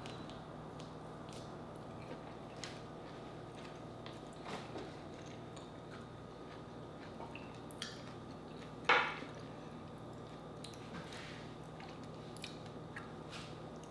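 Close-up eating sounds of a person biting and chewing juicy orange slices: soft wet squishes and small clicks over a faint steady hum, with one short, louder mouth sound about nine seconds in.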